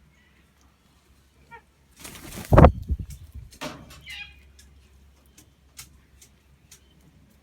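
A bird's wings flapping in a loud burst about two seconds in, with a few short bird calls just before and after it.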